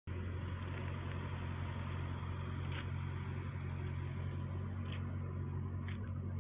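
A steady low mechanical hum, with a few faint short high sounds about three, five and six seconds in.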